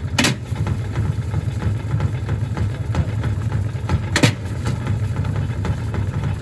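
Gorenje SensoCare washing machine running with heavy bricks in its drum: a steady, pulsing low rumble from the badly unbalanced load. There are two loud bangs, one just after the start and one about four seconds in.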